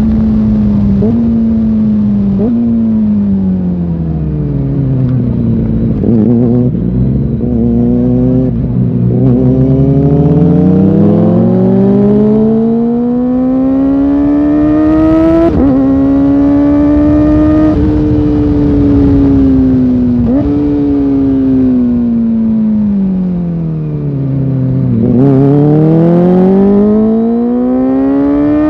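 Kawasaki Ninja ZX-4R's inline four-cylinder engine under way, the revs falling off to a low drone, then climbing again in long sweeps. A sudden drop in pitch about halfway through marks an upshift, and the revs sink once more before rising again near the end.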